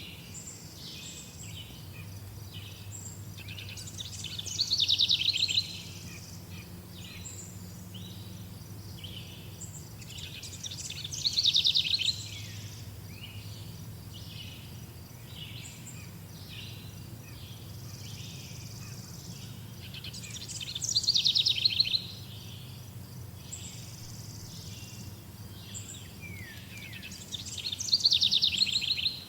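Songbirds singing. One bird gives a loud, fast trilled song that tumbles downward in pitch four times, with softer short chirps from other birds between its songs. A faint steady low hum runs underneath.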